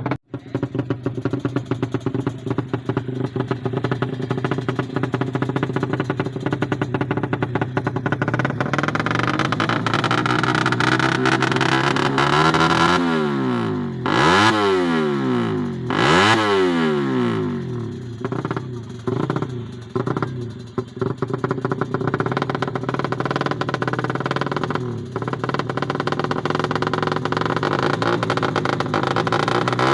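Small tuned motorcycle engines running hard. Their pitch rises and falls sharply twice around the middle, as the bikes rev or pass.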